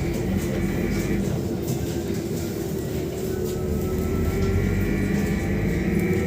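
VMZ-5298.01 Avangard trolleybus on the move, heard from inside: a steady road rumble with a high whine from the electric traction equipment. The whine drops out about a second in and comes back after about four seconds.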